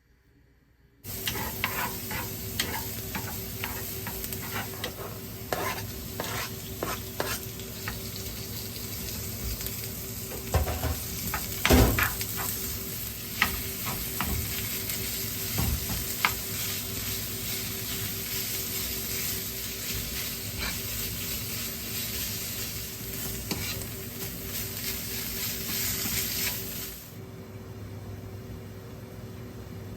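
Food sizzling in a hot frying pan while being stirred, with scattered clicks and knocks of a utensil against the pan. The sizzle starts suddenly about a second in and its high hiss drops away near the end.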